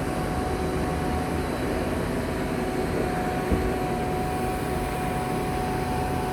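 Steady drone of a Ford 6.4-litre diesel running to power the Altec aerial lift's hydraulics while the boom is lowered, with a thin steady whine over it. A single light knock comes about halfway through.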